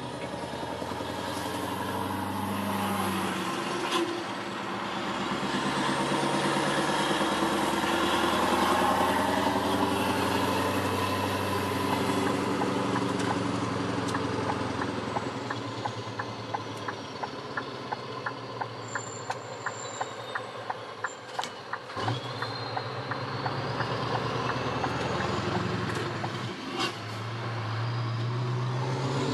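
Scania R500 V8 diesel truck engine running under way, its note falling and rising with gear changes. A regular ticking, about two a second, runs for several seconds past the middle, and there are a few sharp clicks.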